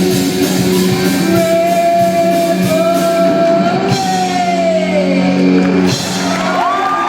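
Live rock band, electric guitars, drums and singers, playing out the last held chord of a song, with a note bending downward before the band stops sharply about six seconds in. Whistling and cheering from the crowd start right after.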